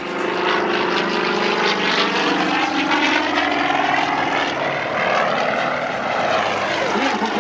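Radial piston engines and propellers of aerobatic trainers (Nanchang CJ-6s and Yak-52s) flying past in a display, a steady drone whose pitch slowly shifts as the aircraft move.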